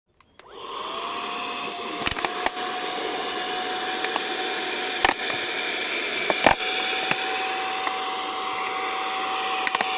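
Battery-powered handheld car vacuum cleaner switched on, its motor whining up to speed within the first second and then running steadily with a hiss of air, broken by a few sharp clicks and knocks.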